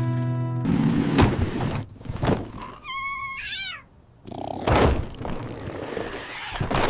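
A kitten meows once, about three seconds in, among several knocks and a rustling clatter.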